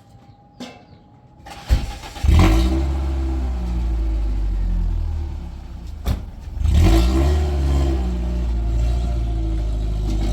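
A motor vehicle's engine starts up with a click and revs, then runs steadily. About six seconds in comes another click, and the engine revs up again.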